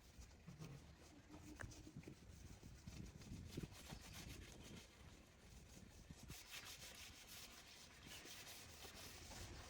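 Faint, irregular rubbing and scraping of hand work, with a few light knocks.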